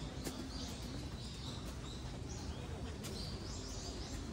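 Small birds chirping, many short high chirps repeating in quick succession over a steady background noise.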